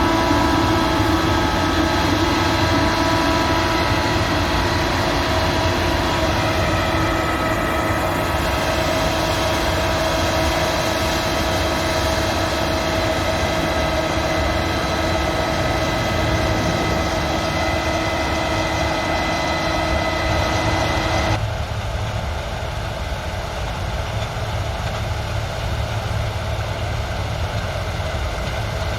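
Combine harvester running steadily, with several constant whining tones from the machine over a deep engine rumble. About 21 seconds in the sound changes abruptly to a lower, rougher engine noise without the whine.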